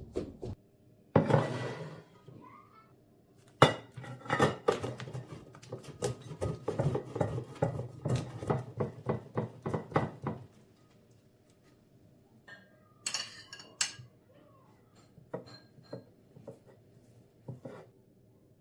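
Dishes and cutlery clattering: a dense run of quick clinks and knocks lasting about seven seconds, followed by a few scattered clinks near the end.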